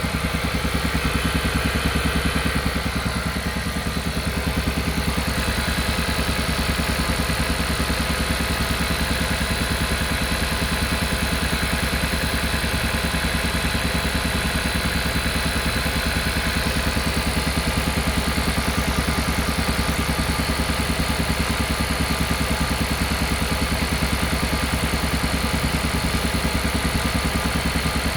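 Kia Carnival Hybrid's 1.6-litre turbo petrol engine running steadily with a fast, even pulsing: the 'puk-puk-puk' engine noise the owner is recording.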